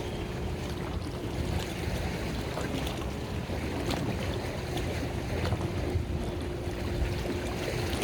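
A boat running on open water: a steady low rumble with water noise, wind buffeting the microphone, and a faint steady hum throughout.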